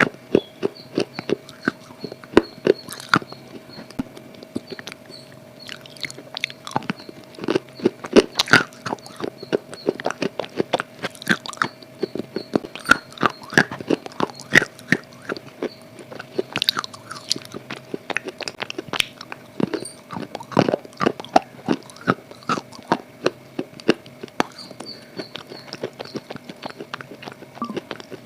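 A person biting and chewing something crunchy close to the microphone: a dense, irregular run of sharp crunches, over a faint steady hum.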